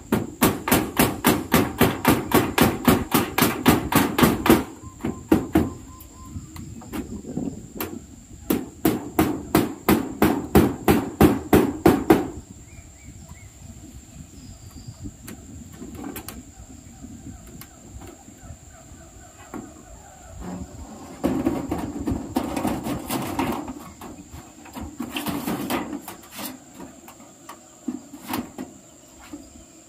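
A hammer striking in two fast runs of about four to five blows a second, each lasting several seconds, while corrugated zinc roofing sheets are being fitted. A steady high insect drone runs underneath.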